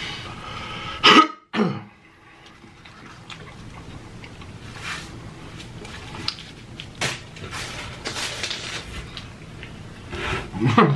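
A man eating close to the microphone: a loud cough or throat-clearing about a second in, then chewing and small wet mouth noises, with a short voiced sound near the end.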